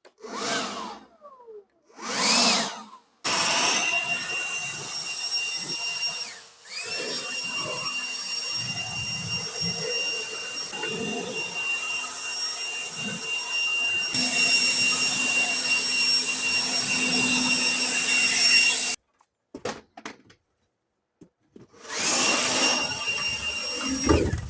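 Blower blowing harvest debris out of a combine harvester: a loud rushing of air with a steady whine. It comes in a few short blasts, then a long run that dips briefly and picks up again, then a last blast near the end. Each time it restarts the whine rises in pitch.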